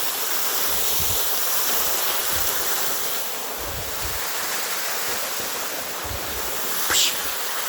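A waterfall rushing steadily close by, with a few low thumps on the microphone.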